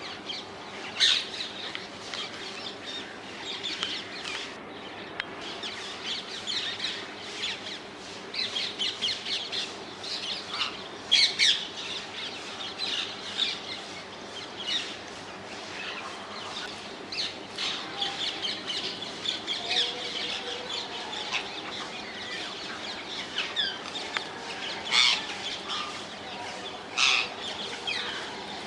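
Wild rose-ringed (Indian ringneck) parakeets calling: a stream of short, shrill screeches, with the loudest ones about a second in, near the middle and twice near the end.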